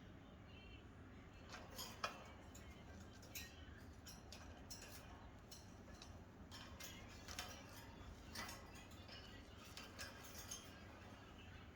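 Faint, scattered clicks and scratches, as of a pet parrot's beak and claws working at its cage, over a low steady hum.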